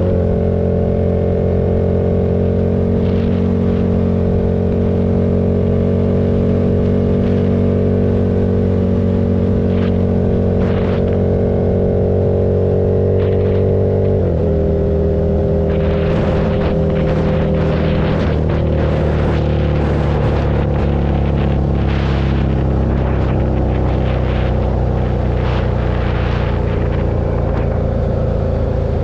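KTM 1290 Super Duke's V-twin engine running at steady road revs. Its pitch drops suddenly about halfway and again a few seconds later, and gusty, crackly noise rides over it in the second half.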